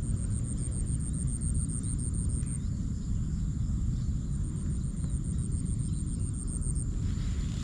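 Low rumble of wind buffeting the microphone outdoors, with a high, rapid pulsing chirp of about eight pulses a second on top. The chirp stops about two and a half seconds in and starts again a little past the middle.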